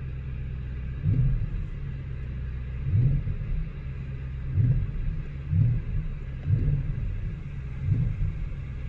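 Audi RS6 C8's twin-turbo V8 idling, heard from inside the cabin as a steady low rumble, with dull low swells about every second or so.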